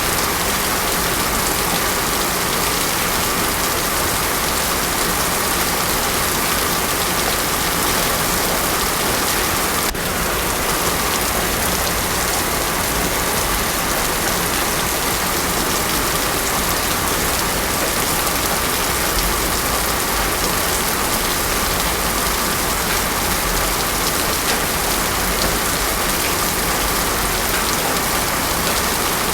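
Heavy rain falling steadily on a paved road, a dense even hiss with no thunder.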